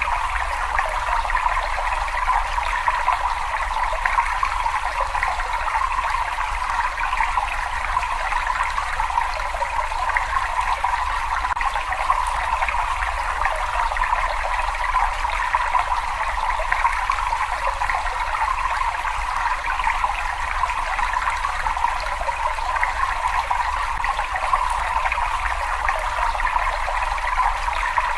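Steady running water, a continuous trickling and splashing with a faint low rumble underneath.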